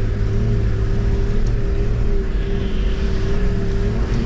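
Toyota Land Cruiser running steadily on the move, heard from on board: an even engine hum over constant low road rumble.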